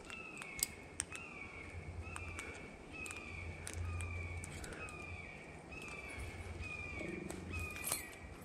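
A bird calling in a steady series of short, slightly falling notes, about one a second, with scattered sharp clicks over it.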